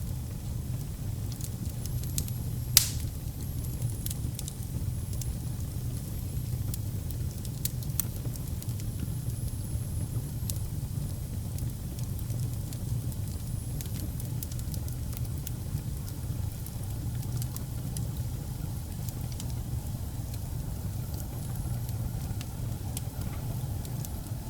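Wood fire burning in a fireplace: a steady low rumble with scattered sharp crackles, and one loud pop about three seconds in.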